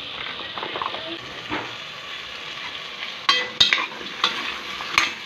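Squash chunks sizzling in a hot metal pot. From about three seconds in, a metal spoon stirs them and knocks sharply against the pot several times.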